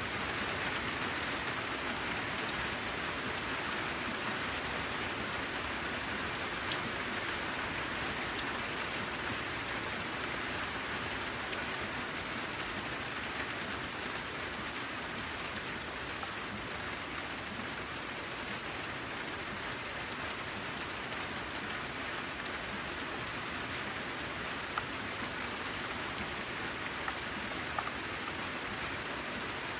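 Steady rain falling on a corrugated metal roof, an even hiss sprinkled with individual drop ticks, a few sharper ones near the end.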